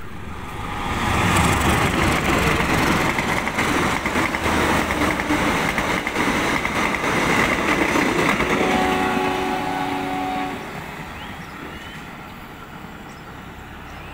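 KAI passenger train passing on the track below: the rumble and clatter of its coaches' wheels on the rails, with a steady high ringing tone over most of the passage. It fades about ten and a half seconds in as the train moves away.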